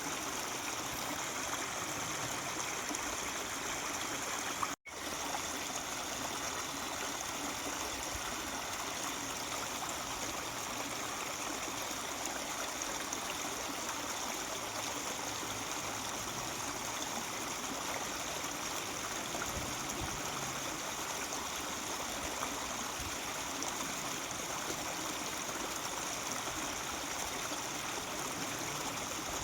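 Mountain stream babbling and trickling steadily over stones, with a sudden split-second cut to silence about five seconds in.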